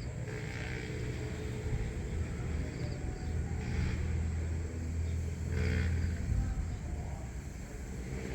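Distant road traffic: a steady low rumble of vehicles that swells about five to six seconds in, with a few faint, brief higher sounds over it.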